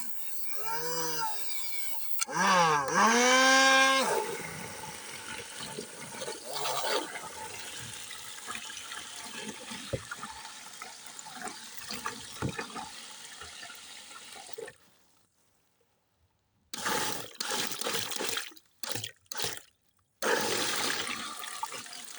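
Handheld vacuum cleaner sucking up water. Its motor whine glides up and down in pitch for the first few seconds, loudest around the third and fourth second, then gives way to a steady gurgling slurp of water being drawn in. Near the end the sound drops out for about two seconds, comes back in a few short bursts, then runs on.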